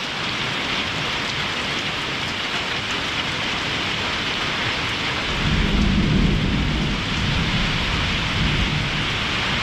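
Heavy rain drumming steadily on a tin roof, with a roll of thunder that rumbles in about five seconds in, peaks soon after and fades away over a few seconds.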